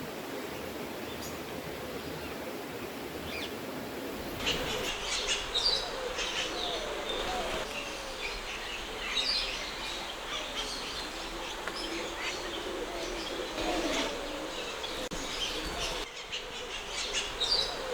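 Many birds calling at once in a large aviary: short high chirps over lower gliding calls, scattered and overlapping. For the first four seconds there is only a steady rushing noise, which cuts off abruptly before the calls begin.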